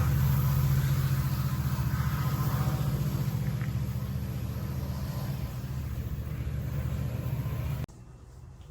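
Diesel train locomotive engine rumbling steadily at a railway station, slowly fading, then cut off abruptly about eight seconds in.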